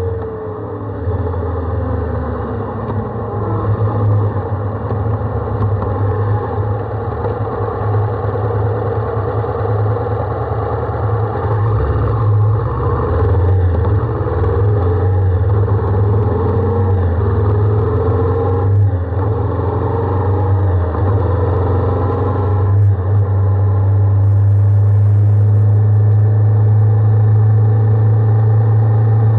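Honda 400X motorcycle's parallel-twin engine running while riding, its pitch rising and falling several times with throttle and gear changes over a heavy steady low drone. It holds steadier toward the end.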